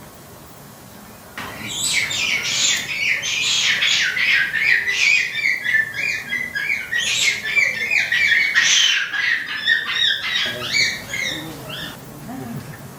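Rapid bird chattering: a dense run of quick, high chirps, many falling in pitch, that starts abruptly about a second in and dies away near the end.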